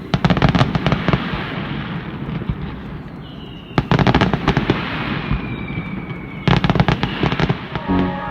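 Fireworks: three volleys of rapid crackling bangs a few seconds apart, with rumbling between them and a faint falling whistle in the middle.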